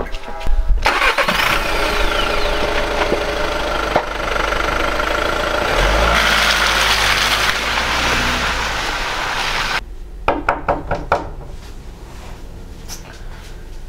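Volkswagen Golf car engine starting and running for several seconds, then cutting off abruptly. A few sharp knocks follow in the quieter stretch near the end.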